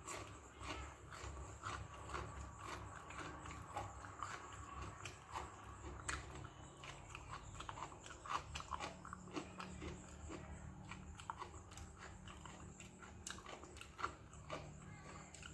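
A person eating fermented rice (pazhaya sadam) with okra stir-fry close to the microphone: chewing with many small, irregular wet mouth clicks and smacks.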